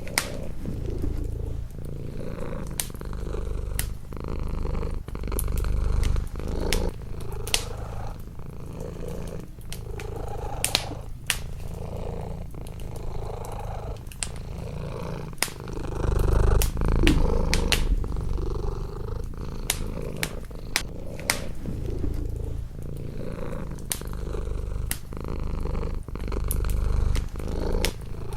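A domestic cat purring close up, the low purr swelling and easing with each breath. Throughout, there are sharp, irregular pops and crackles of burning wood in a fireplace.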